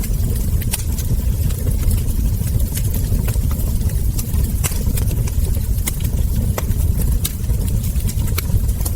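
Wood fire crackling, with frequent sharp irregular pops and snaps over a steady low rumble of burning logs.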